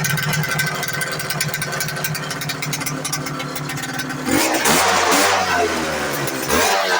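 Minsk Leader motorcycle engine running on a newly fitted PWK28 carburettor: it idles steadily, then the throttle is blipped twice, the revs rising and falling about four seconds in and again near the end.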